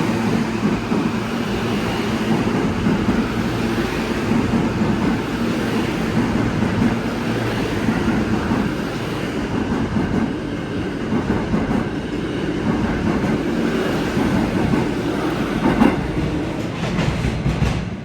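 New York City subway train running on the tracks, a steady noise of wheels on rail.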